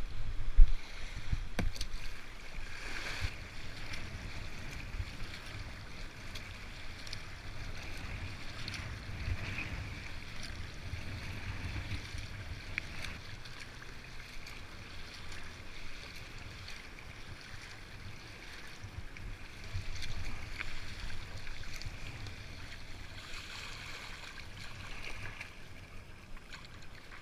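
Kayak paddling: water splashing and swishing in uneven swells, with wind rumbling on the microphone and a sharp knock about half a second in.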